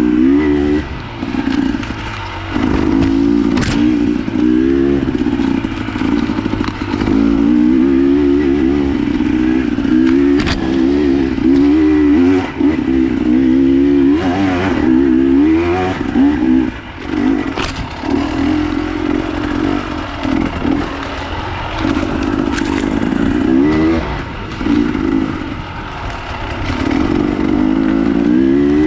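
Off-road enduro motorcycle engine being ridden, its revs rising and falling constantly with throttle changes, with a few sharp knocks along the way.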